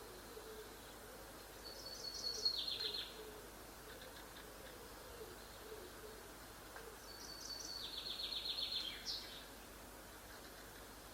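A small songbird singing two phrases a few seconds apart. Each phrase is a high thin note that runs into a quick trill falling in pitch, and the second phrase ends with a brief upturn.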